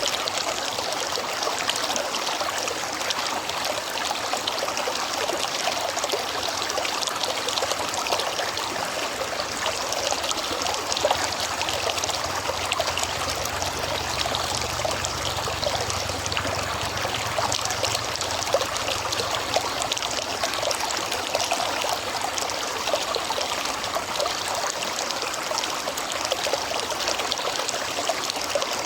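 River water running steadily, a dense, even trickling and splashing.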